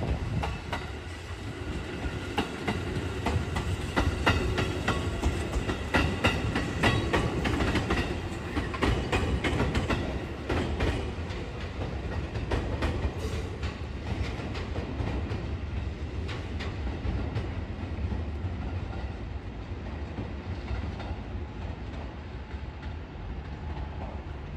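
Train running past on the tracks, its wheels clicking over rail joints in a dense run through the first half. The clicks die away after about 13 seconds while a low rumble carries on and slowly fades.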